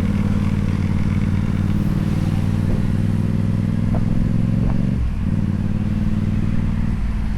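Motorcycle engine running on the move at a steady note; about five seconds in the note drops and wavers, then steadies again.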